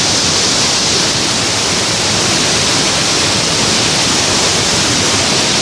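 Yeh Ho waterfall pouring, a steady rush of falling water with a bright hiss.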